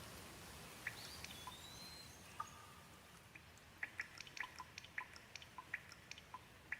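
Gentle rain: a faint steady hiss with irregular drops ticking sharply on a hard surface, coming more often in the second half.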